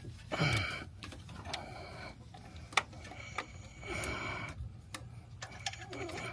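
Scattered sharp clicks and knocks of hand tools working against metal in a car's engine bay, between short stretches of rustling noise.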